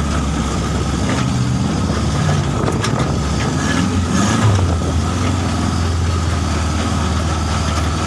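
Off-road 4x4 vehicle engine running steadily at low revs, with a brief swell about four and a half seconds in.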